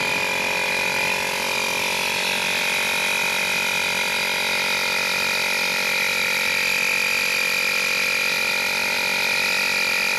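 Small electric tyre inflator running steadily with an even, unchanging hum, pumping air into a motorcycle tyre after a puncture repair.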